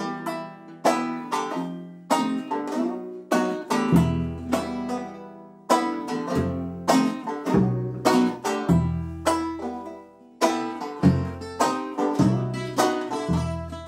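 Banjo and acoustic guitar playing an instrumental intro, plucked notes in a steady rhythm, with low bass notes coming in about four seconds in.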